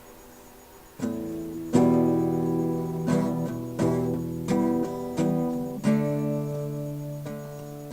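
Acoustic guitar strummed chords: after a quiet first second, about seven single strums roughly 0.7 s apart, each left to ring out.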